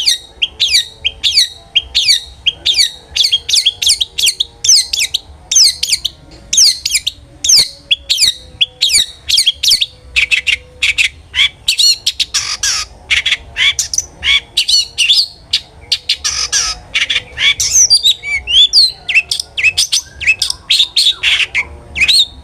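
Long-tailed shrike (cendet) singing hard: a rapid run of sharp, high sweeping notes, about two a second, broken around the middle by denser harsh, scratchy chattering.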